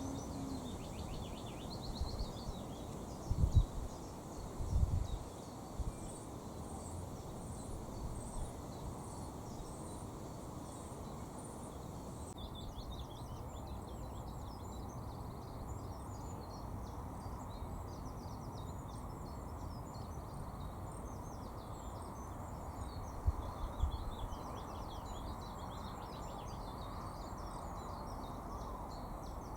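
Small songbirds singing over a steady outdoor background hiss: a run of short, high, evenly repeated notes, then from about halfway a fast, busy warbling song. A few low thumps come in the first five seconds and again about two-thirds through.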